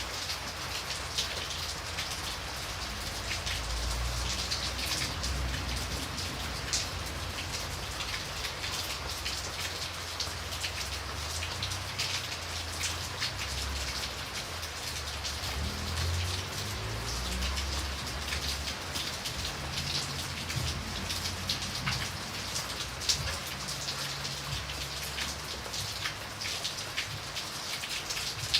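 Steady rain, with many separate drops ticking through an even hiss. A low rumble swells and fades underneath.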